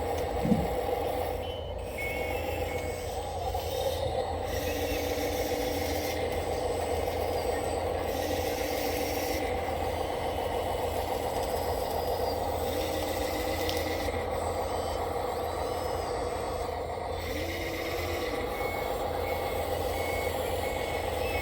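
Electric drive motors and gearboxes of radio-controlled construction machines whining steadily as they push and pack dirt. A reversing beeper sounds in short, evenly spaced beeps at times.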